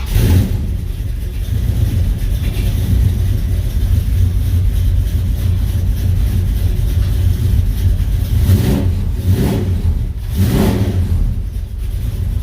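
Duster's engine running just after startup, its exhaust rumbling low through newly fitted tailpipes and mufflers, with three short revs about 8½, 9½ and 10½ seconds in.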